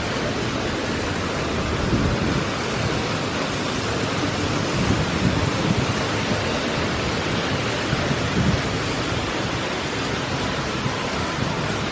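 Heavy rain pouring down steadily, with low gusts of wind buffeting the microphone now and then.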